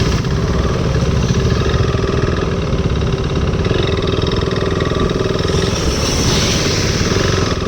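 KTM RC 390's single-cylinder engine running steadily while riding, with a rush of hiss building about five and a half seconds in and easing off near the end.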